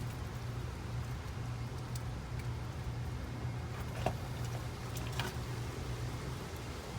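Steady low mechanical hum, with a few light clicks and taps about two, four and five seconds in.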